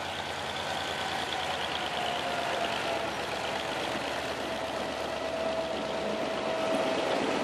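EMD G22CU diesel-electric locomotive with a naturally aspirated 12-cylinder 645E engine running as it passes, followed by the rumble of loaded hopper cars rolling by. A thin, steady squeal runs underneath and grows a little louder toward the end.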